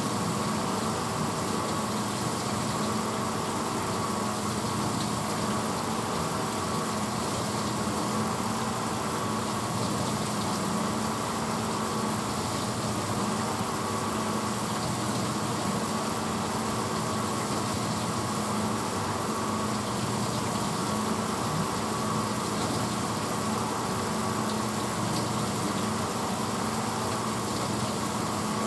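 1986 Hotpoint Potwasher dishwasher running steadily mid-cycle: the wash motor's constant hum under an even hiss of water spraying inside the tub.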